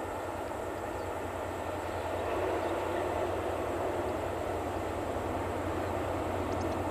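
Freight train running past: a steady rumble of locomotive and wagons with a low hum underneath, growing louder about two seconds in.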